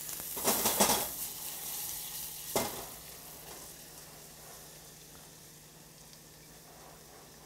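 Diced shallots and butter sizzling in a hot saucepan as they are stirred, louder in the first second or so, with a single sharp knock about two and a half seconds in. The sizzle then fades to a faint hiss.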